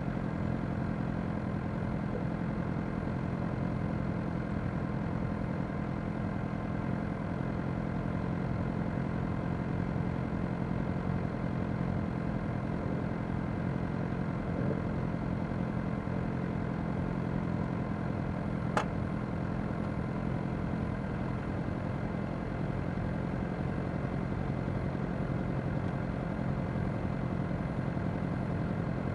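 Motorcycle engines idling steadily in a stationary queue of bikes, the nearest being a Suzuki GSX-R600's inline-four. A single sharp click sounds about two-thirds of the way through.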